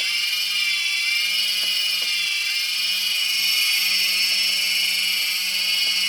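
Multirotor drone propellers whining at a steady high pitch, the pitch wavering slightly as the motors hold speed.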